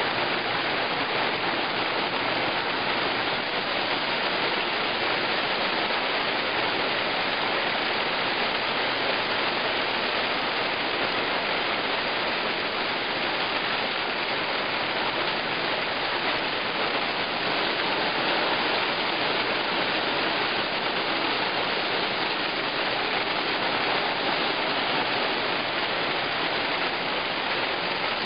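Hail falling in a dense, steady downpour, its many small impacts blending into one even rushing noise.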